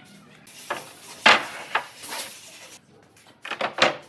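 A series of sharp wooden knocks and clacks, about five in four seconds, the loudest a little over a second in: wooden pieces being handled and knocked together.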